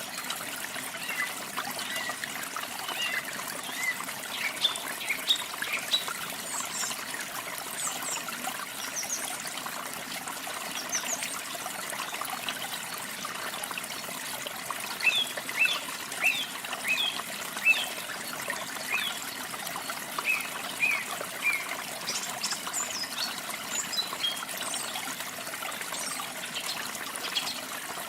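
Steady rush of running water, like a small waterfall or stream, with songbirds chirping and trilling over it in scattered bursts.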